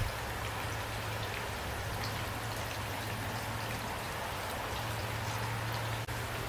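Steady rain falling, with individual drops striking close by over a continuous wash of rain, and a low steady hum underneath. The rain briefly drops out about six seconds in.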